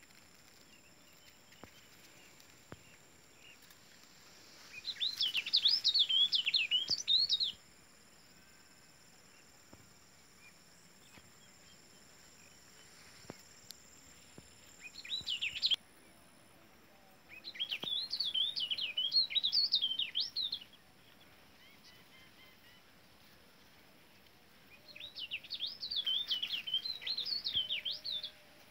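A songbird singing in four phrases of rapid, jumbled chirping notes a few seconds apart, the second phrase short, over a quiet background.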